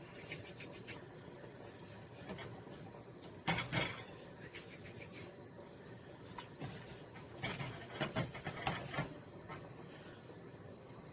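Kitchen handling sounds at the cooking pot: scattered knocks and clatters. The loudest come about three and a half seconds in, with a cluster of several more around eight seconds.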